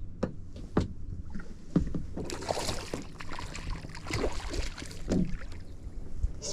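Irregular clicks and knocks, with short bursts of splashing, as a hooked largemouth bass is played in close to be landed.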